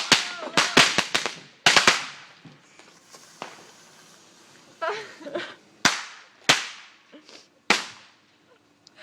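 A string of firecrackers going off: a rapid burst of sharp bangs in the first two seconds, then single cracks at irregular, wider gaps as it dies down.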